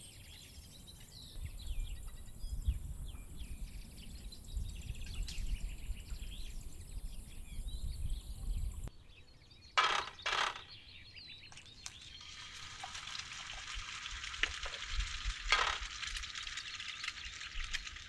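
Birds chirping faintly over a low rumble. After a sudden change, two short knocks, then food starts sizzling as it fries, a steady hiss with small pops.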